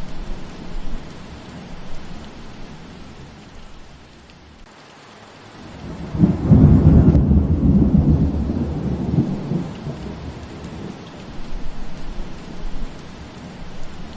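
Steady rain falling through trees, with a roll of thunder about six seconds in that swells to a deep rumble and dies away over several seconds.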